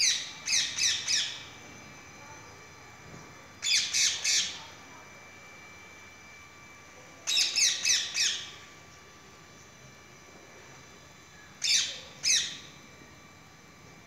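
A bird calling in four short bursts of two to four quick, harsh squawks, the bursts a few seconds apart.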